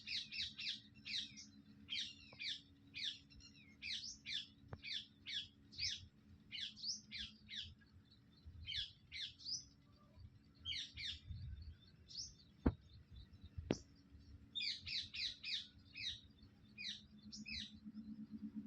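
A parrot chirping: runs of short, high, downward-sweeping chirps, several a second, with a break around the middle. Two sharp clicks come about two thirds of the way through.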